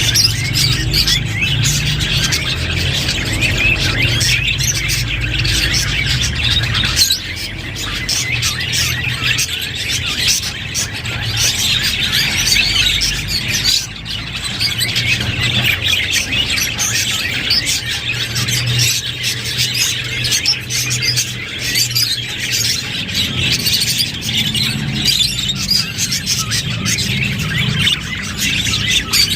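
A flock of budgerigars chirping and warbling continuously, many birds calling over one another.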